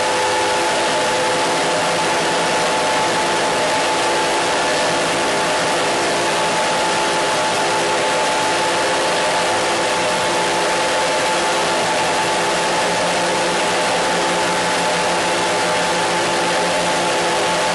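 Steady, unchanging hiss of noise with several held, steady tones underneath it.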